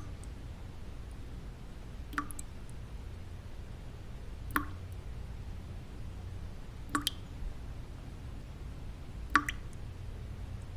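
Water drops falling one at a time, four in all, evenly spaced about two and a half seconds apart, each a short plink, over a steady low white-noise bed.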